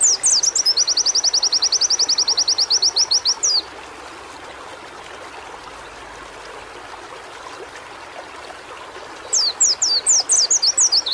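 White-eye (pleci) singing: a run of quick downward-sweeping whistles gives way to a rapid high trill of evenly repeated notes lasting about three seconds. After a pause of about six seconds over a steady background hiss, the same phrase starts again near the end.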